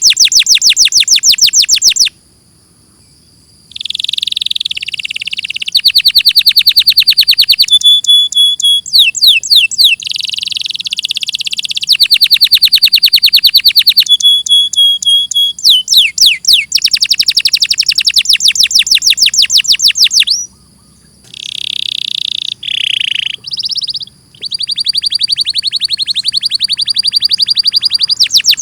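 Domestic canary singing: long runs of very fast, high trills and rolls, mixed with short whistled notes and quick sweeping notes. The song breaks off briefly about two seconds in and again about twenty seconds in.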